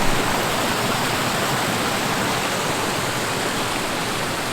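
Waterfall water rushing over the drop: a steady, dense roar of falling water.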